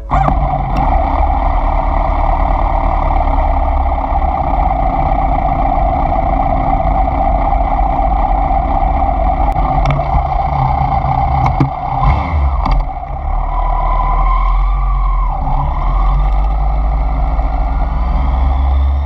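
Inline-four sport motorcycle riding along at a steady pace, engine running under light load with road and wind noise. A few sharp knocks come about ten to thirteen seconds in, and a short whine rises and falls around fourteen seconds.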